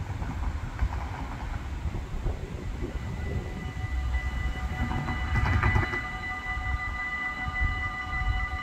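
A train rumbling on the rails. About four seconds in, a steady high whine made of several tones sets in and holds. A brief louder rush of noise comes around five and a half seconds in.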